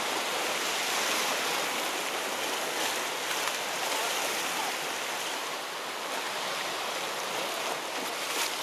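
Sea surf washing steadily against a rocky shore, an even rushing noise with no distinct strokes.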